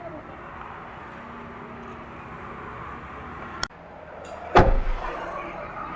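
A car door shut with a heavy thud about four and a half seconds in, preceded a second earlier by a sharp click, over a steady background hum.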